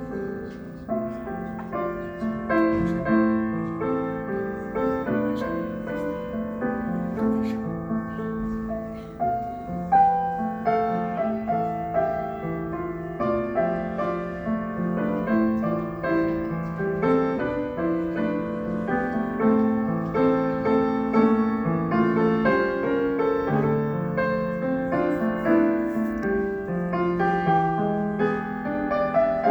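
Instrumental break of a slow ballad: piano playing the melody and chords without singing.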